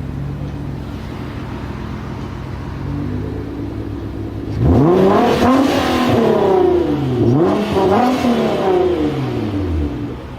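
Nissan R35 GT-R's twin-turbo V6 on straight pipes, idling and then revved hard twice while parked, the pitch climbing and falling with each rev before dropping back toward idle near the end.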